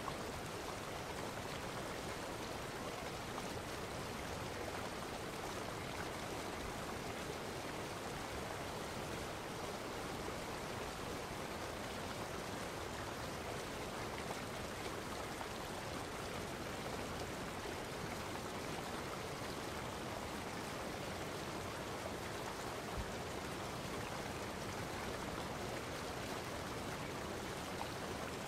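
Steady, unbroken rushing of running water, like a stream, with no change in level.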